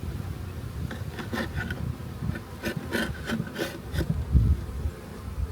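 Wooden hive frames scraping and knocking as they are slid along inside a beehive box to even out the spacing, over the buzz of honey bees.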